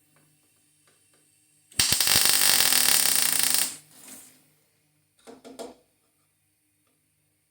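Electric welding arc crackling on thin car-body sheet steel, about two seconds of steady crackle. Two short bursts follow about five seconds in.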